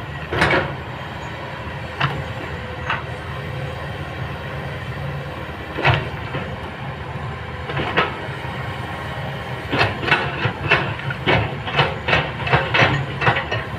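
Kobelco hydraulic excavator running with a steady low engine hum, with sharp clanks from the machine working; the clanks come singly at first, then in a quick run of two or three a second near the end.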